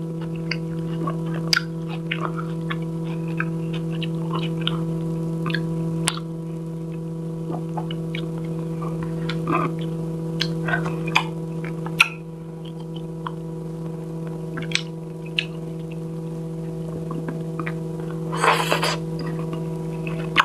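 Close-miked eating sounds: chewing and soft mouth clicks and smacks, scattered and irregular, as fish is eaten with the fingers. A steady low hum runs underneath, and a brief louder noisy burst comes near the end.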